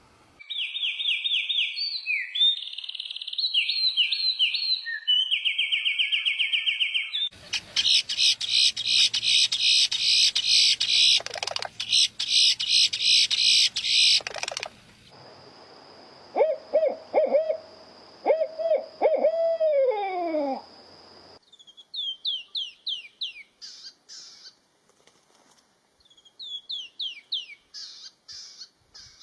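Several different bird calls spliced one after another, with abrupt changes: rapid high trills, then a dense run of repeated calls, then lower calls ending in downward glides, then short falling whistles.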